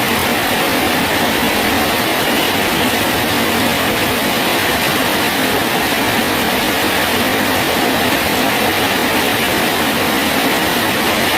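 Steady rain falling on a bridge: an even, unbroken hiss with no separate drops, thunder or other events standing out.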